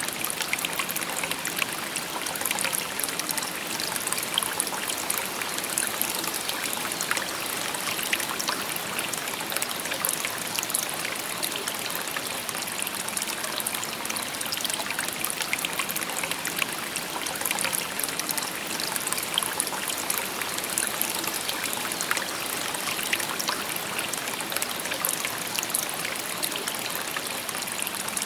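Shallow stream babbling and trickling over stones, a steady splashing rush with many small droplet splashes.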